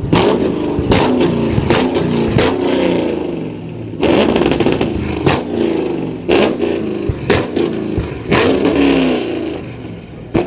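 Chevrolet Camaro's engine revved hard again and again, pitch rising and falling, while its exhaust cracks with many sharp pops and bangs as it shoots flames.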